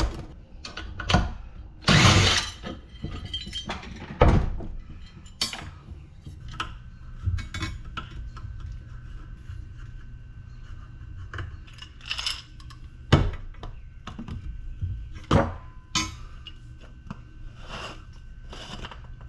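Metal parts of LED light fixtures being handled and tossed while they are scrapped: irregular clanks and clinks, with one loud crash about two seconds in and several sharp hits later on.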